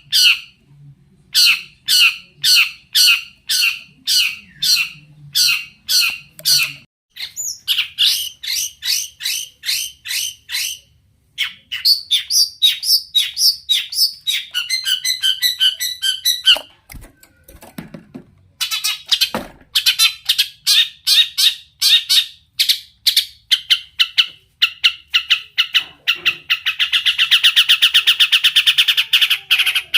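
Long-tailed shrike (cendet) in full song, with imitated calls of other birds woven in. It starts with a harsh repeated note about twice a second, moves into faster runs of notes, and ends in a rapid unbroken trill.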